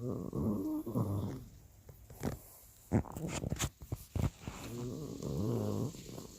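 Pug snoring: two long, rattling snores a few seconds apart, with a few sharp clicks between them.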